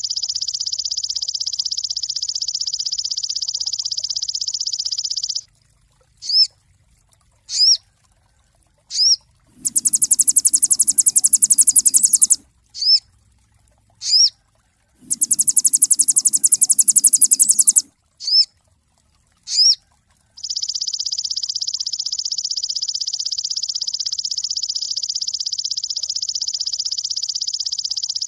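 Sogon songbird singing. It starts with a long, high, buzzy trill. In the middle come short swooping whistled notes about a second apart and two harsh rattling trills of about three seconds each. The long trill returns near the end.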